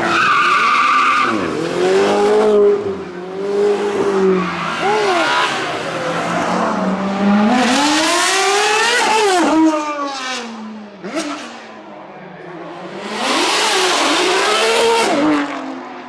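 Racing car engine at full throttle, its pitch climbing and dropping several times as it revs and shifts through the gears, with tyres squealing.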